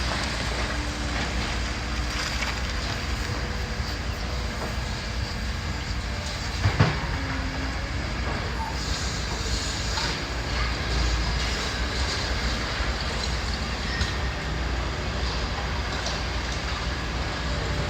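Demolition machinery pulling down a building's roof: a steady rumble and clatter of machinery and debris, with one sharp crack about seven seconds in.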